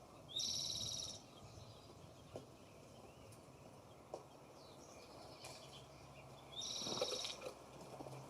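A bird at the feeder gives two loud, high calls, each just under a second long and about six seconds apart, with a few faint taps between them.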